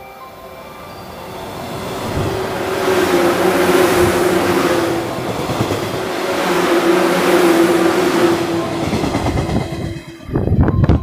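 JR 113-series eight-car electric train passing through a station at speed without stopping. Its noise swells over the first few seconds and stays loud for several seconds with a steady drone as the cars rush past, then eases off. A short burst of low rumbling comes near the end.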